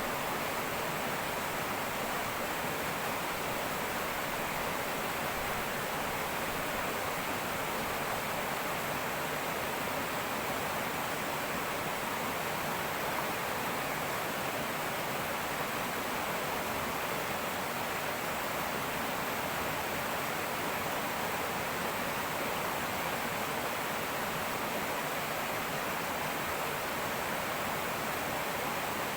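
Fast-flowing river rushing steadily over rocks, with a steady high cicada drone (tonggeret) behind it.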